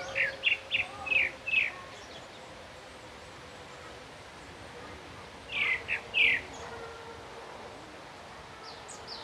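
Bird calling: a quick run of about six short, high chirps, each sweeping downward, in the first two seconds, a few more near the middle, and another run near the end, over a faint steady hiss of outdoor background.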